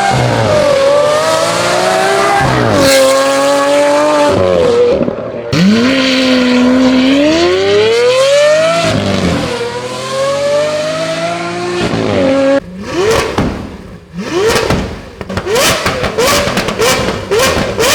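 Lamborghini Aventador's V12 through a Brilliant aftermarket exhaust, its pitch climbing and dropping back several times as it revs up through the gears. In the last few seconds come short sharp revs with a string of loud cracks and pops.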